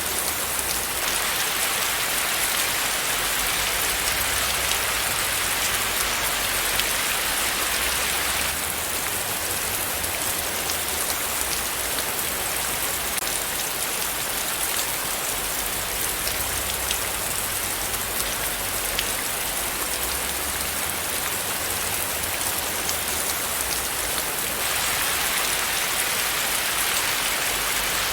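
Steady rain falling: an even hiss of rain with scattered individual drops ticking. It grows slightly brighter for a few seconds at the start and again near the end.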